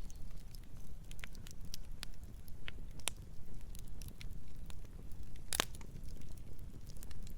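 Campfire burning: wood crackling with scattered sharp pops over a low, steady rumble, one pop louder than the rest a little past the middle.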